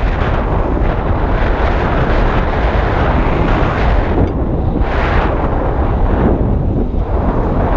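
Strong wind buffeting the action-camera microphone: a loud, continuous rumble with gusts swelling over it, one strong gust about five seconds in.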